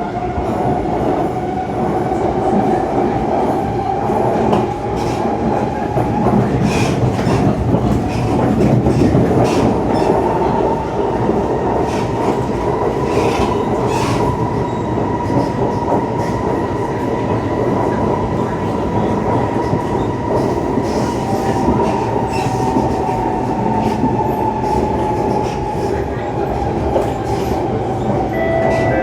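Siemens C651 metro train running, heard from on board: rumble of wheels on the track with scattered clicks, under the whine of its GTO-VVVF traction inverter and motors. The whine rises in pitch over the first ten seconds as the train gathers speed, holds, then eases down again in the last few seconds.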